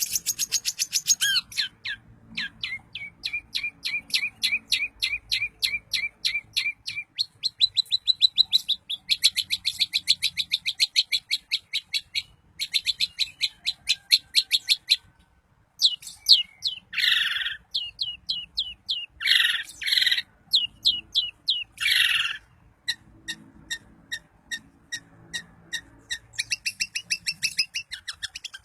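Long-tailed shrike (cendet) singing in a loud, varied run of rapid trills, each made of many fast repeated notes. Three short, harsh rasping calls break in around the middle.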